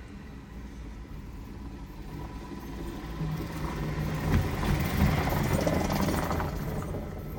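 Garbage truck engine running as the truck approaches, growing louder over the first few seconds and loudest a little past the middle.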